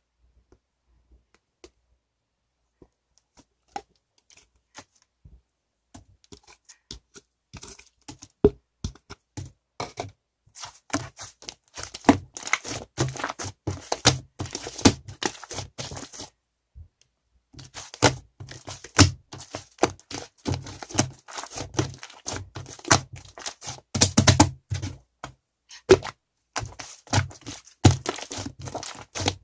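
Many short sharp clicks and crackles. They are sparse at first, grow thick and rapid from about ten seconds in, and stop for about a second near the middle.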